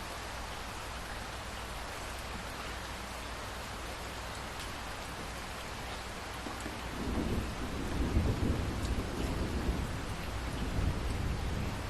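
Steady rain falling, joined about seven seconds in by a low rumble of thunder that swells and rolls on.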